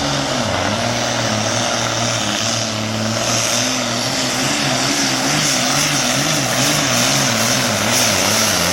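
Super Farm class pulling tractor's diesel engine running at full power down the track, its pitch wavering up and down repeatedly in the second half as engine speed rises and falls under load.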